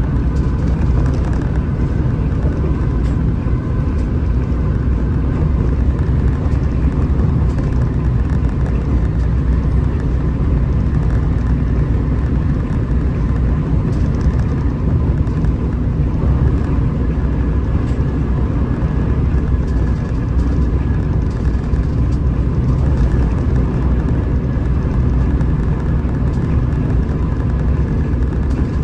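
Hino RM 280 bus with its diesel engine running at a steady cruise: a continuous low drone of engine and road noise with a faint steady whine above it.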